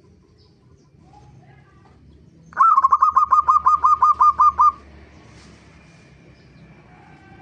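Zebra dove (perkutut) calling: a quick run of about a dozen short, clipped notes, about six a second, lasting two seconds. Fainter bird calls come before and after it.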